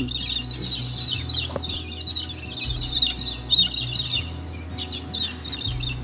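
Many small birds chirping continuously, over background music with a low bass line that changes note every second or so.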